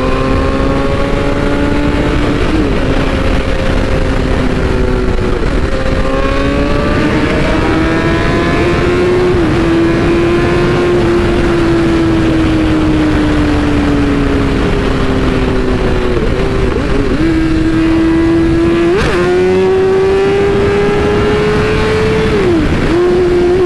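BMW S1000RR inline-four sport bike engine running hard at speed, its pitch rising and falling with several brief dips as gears change, under heavy wind noise on the helmet microphone.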